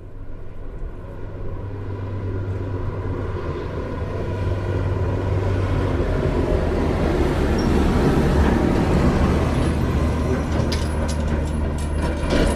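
A motor running with a steady low hum that grows louder over the first several seconds, with a few clicks near the end.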